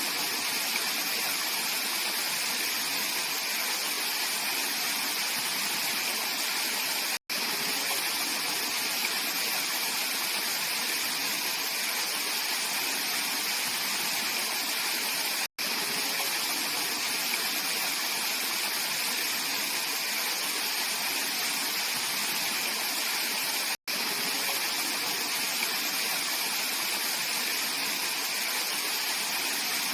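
Mountain valley stream flowing, a steady rushing hiss of water. The sound drops out for an instant three times, about eight seconds apart.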